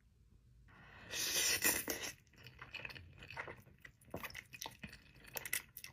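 Close-miked eating sounds: a loud burst of mouth noise about a second in, then wet chewing with many small clicks and smacks.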